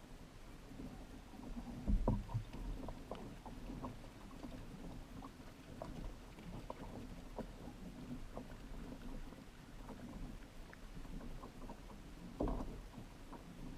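Hobie Pro Angler kayak on the water: a steady low rumble of water against the plastic hull with many small clicks and ticks, and louder knocks about two seconds in and near the end.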